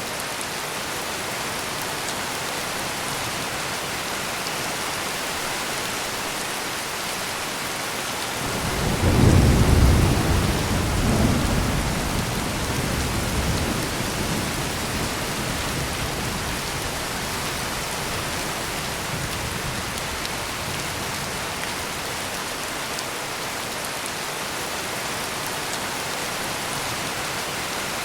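Steady heavy rain, with a deep roll of thunder rumbling up about eight seconds in, peaking soon after and fading away over several seconds.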